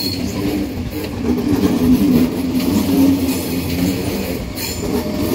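Frecciarossa 1000 (ETR 1000) high-speed electric train rolling slowly in to arrive at the platform: a steady low rumble and hum, with a brief wheel squeal near the end.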